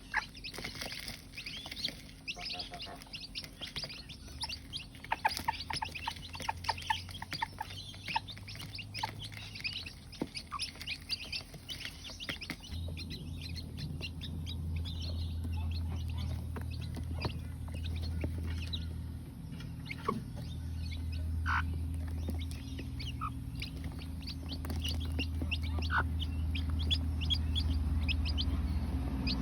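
Newly hatched chicks peeping in quick, high chirps throughout, with the mother hen clucking as she leads them to food. A low, steady hum joins underneath from about halfway.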